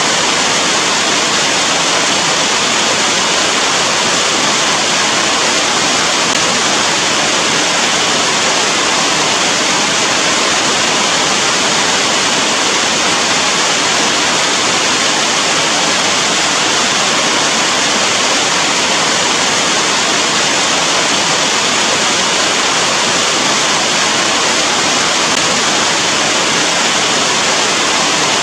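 Steady rain, a dense, even hiss.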